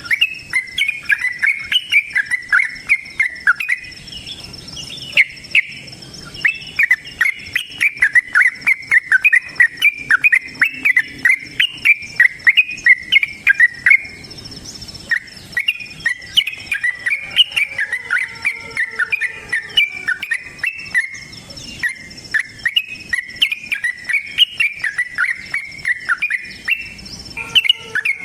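Yellow-vented bulbul (trucukan) singing a long, rapid run of chirpy notes in its fighting song, with short breaks about 4 and 14 seconds in. A faint steady high tone, like an insect, runs underneath.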